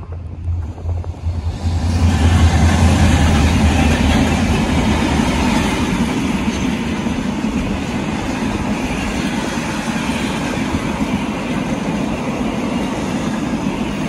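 A locomotive-hauled train passing close by: a low engine drone as the locomotive goes past in the first few seconds, then the steady rumble of passenger carriage wheels rolling over the track.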